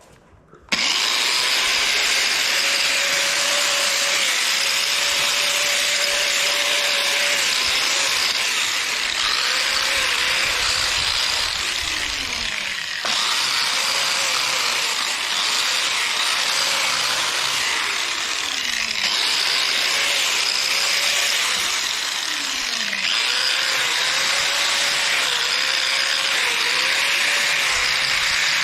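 Power tool with a wire wheel scrubbing rust and old paint off the backhoe's metal front weights. It starts abruptly about a second in and runs steadily, with a slightly wavering hum and a few brief dips in level.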